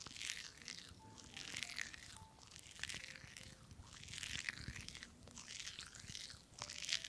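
Crisp food crunching in a run of short, crackly bursts, roughly one a second.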